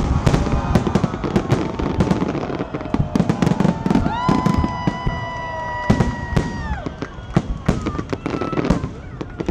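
Aerial firework shells bursting in a dense, irregular run of bangs and crackles. Between about four and seven seconds in, a long, high, steady tone sounds over them.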